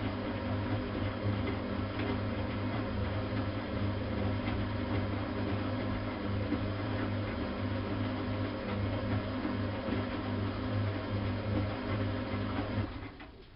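Bosch WFK 2431 washing machine running with a steady mechanical hum, then cutting off suddenly near the end.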